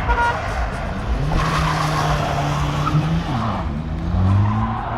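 A car engine held at high revs while the tyres squeal and skid, then the revs drop and rise again near the end.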